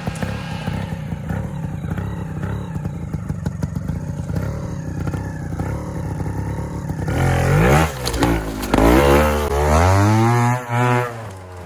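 Trials motorcycle engine running at a low, steady idle with a light clatter. About seven seconds in it is revved hard several times, the pitch sweeping up and down in a few sharp blips and then a longer held rev, before it drops away near the end.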